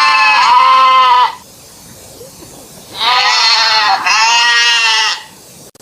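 Goat bleating: a long wavering bleat, then after a pause of about a second and a half, another long bleat that breaks briefly in the middle.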